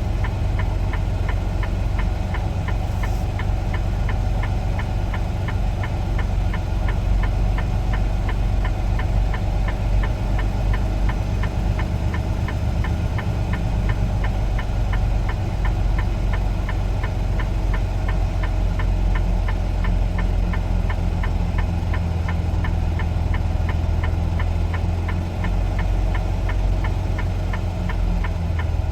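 Semi truck's diesel engine running at idle while the truck creeps along, a steady low drone with a regular fast ticking of about two to three clicks a second over it.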